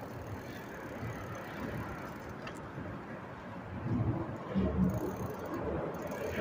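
Bicycle riding on a windy day: wind buffeting the microphone over the rolling tyres, with louder low gusts around four to five seconds in.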